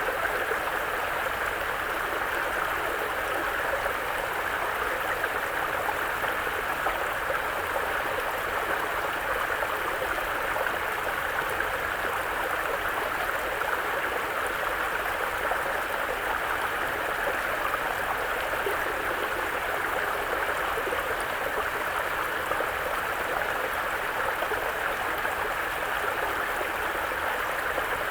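Mountain brook, its running water murmuring steadily.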